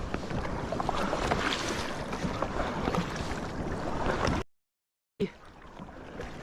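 Water splashing and sloshing around a sea kayak as it is paddled, with irregular small splashes from the paddle strokes. The sound cuts out completely for under a second about four and a half seconds in.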